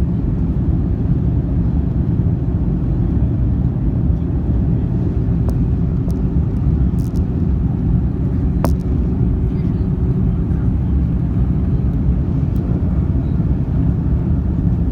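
Steady low rumble of cabin noise inside an Airbus A310-304 on approach with landing gear and flaps extended: airflow over the fuselage and its General Electric CF6-80C2 turbofans. A single sharp click sounds in the cabin about nine seconds in.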